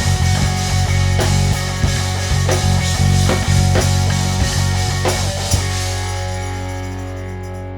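Rock band playing the closing bars of a song live, with a steady drum beat; about five and a half seconds in the drums stop and a final held chord rings out, slowly fading.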